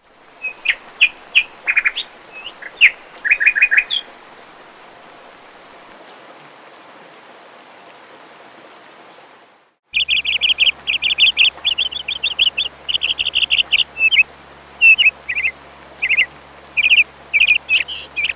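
Small songbirds chirping and singing in quick high chirps and short trills. There is a first burst in the first four seconds, then, after a brief break near ten seconds, a denser run of rapid chirps over a low steady hum.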